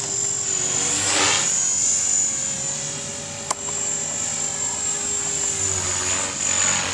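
Electric Trex 450-class RC helicopter in flight: a steady high whine from the motor and drivetrain over the steady hum of the rotors. It swells twice, about a second in and near the end, and a single sharp click comes about three and a half seconds in.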